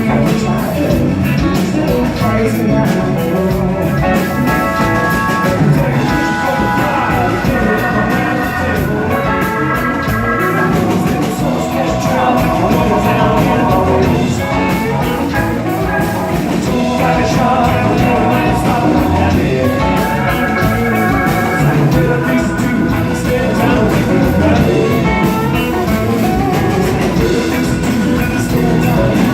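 Live rock band playing, with electric guitar over a steady beat.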